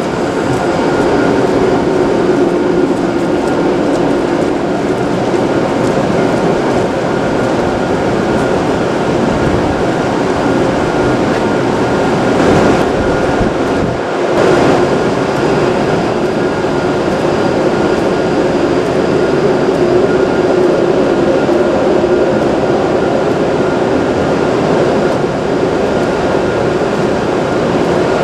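Hokuriku Shinkansen E7/W7-series train running at the platform: a steady, loud rumble with a held hum, briefly dipping about halfway through.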